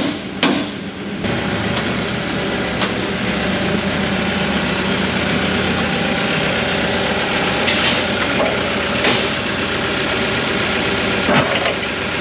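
A machine's engine idling steadily, with a few sharp metal knocks and clanks from work on the heavy parts.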